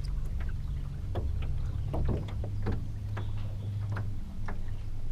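Boat motor running with a steady low hum that changes pitch about two seconds in and changes back around four seconds, with scattered light knocks over it.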